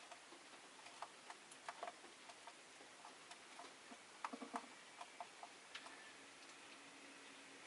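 Faint, irregular light clicks and taps from peach-faced lovebirds in their cage, a few each second, with a brief busier cluster around the middle.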